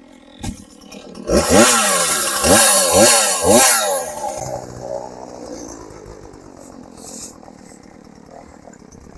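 Two-stroke gas chainsaw revving in four or five quick rising bursts about a second in, then dropping back to a much quieter run for the rest.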